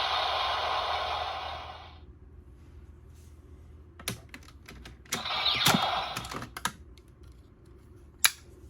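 A plastic Kamen Rider progrise key and driver toy: its speaker's electronic sound effect trails off about two seconds in. Then come a cluster of plastic clicks and rattles as the toy is handled, and one sharp click near the end.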